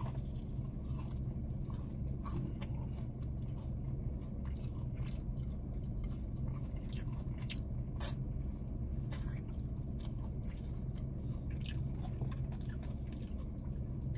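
Close-miked eating of fried chicken: biting and chewing, with irregular crisp crunches and mouth clicks over a steady low hum.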